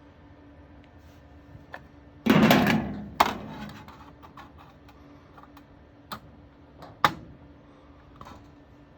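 Sharp metallic clicks and knocks of small metal parts and hand tools being handled, with one louder clatter a little over two seconds in, over a faint steady hum.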